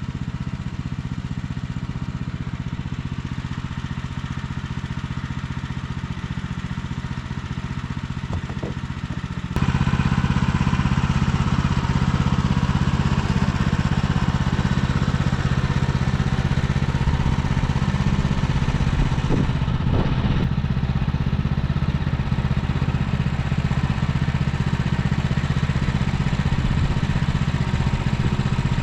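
Gas-engine portable band sawmill running steadily while sawing a log. About ten seconds in, the sound steps up sharply and gets louder, with a harsher cutting hiss over the engine note.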